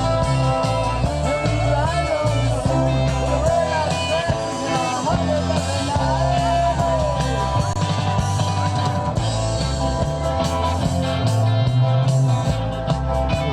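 Rock band playing live: electric guitar, bass and drum kit, with singing over a steady beat.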